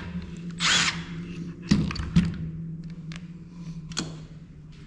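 A small power tool's motor running steadily with a low hum, stopping near the end. There is a short hiss under a second in, and two sharp clicks a little after.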